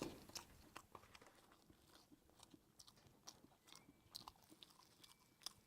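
Faint chewing of a pork zongzi (sticky rice dumpling): scattered soft mouth clicks, very quiet.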